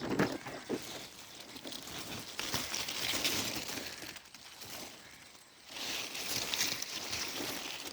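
Dry sugarcane leaves rustling and crackling in two stretches, with a few small clicks.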